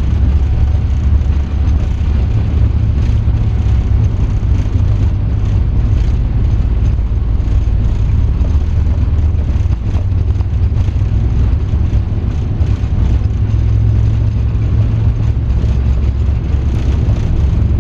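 Boeing 747 flight deck during the takeoff roll: a loud, steady, deep rumble of the engines at takeoff thrust and the airframe running down the runway as the jet accelerates toward rotation.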